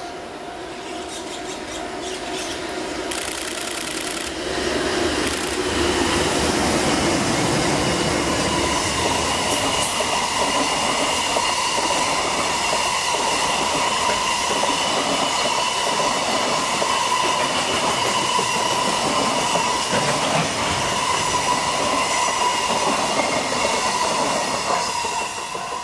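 JR Freight EH500 electric locomotive and its container train passing close by: the sound grows over the first five seconds as the locomotive draws near, then the wagons run past with a steady loud rolling noise and clatter, carrying a steady high whine, and it drops away suddenly as the last wagon goes by near the end.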